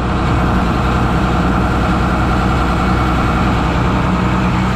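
Combine harvester's diesel engine running steadily while it warms up.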